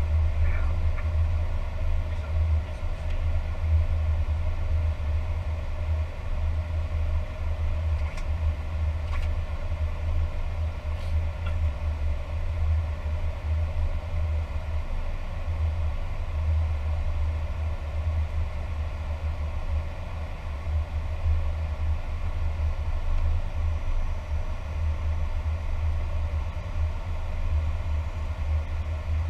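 Steady A320 flight-deck noise in flight: a constant low rumble of airflow and engines with a faint even hum above it.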